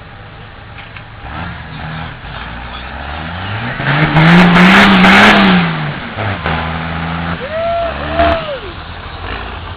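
Competition truck engine revving: the pitch climbs to a loud peak about halfway through, then drops back to a lower steady run. Near the end come two short rising-and-falling tones.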